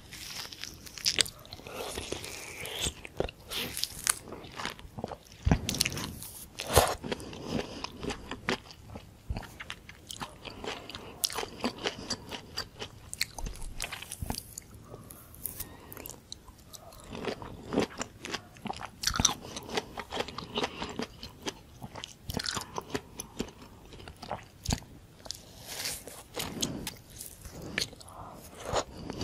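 Close-miked biting and chewing of juicy orange segments topped with whipped cream: wet crunches and mouth sounds at uneven intervals throughout.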